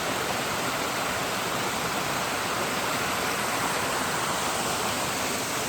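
Steady rush of a waterfall, an even unbroken noise of falling water.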